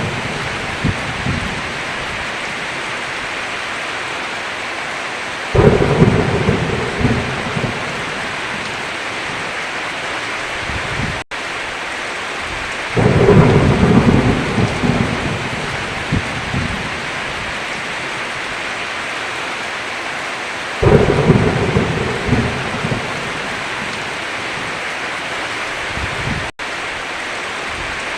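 Steady heavy rain with rolls of thunder that break in suddenly about every seven to eight seconds, three times, each dying away over a few seconds. The sound cuts out for an instant twice.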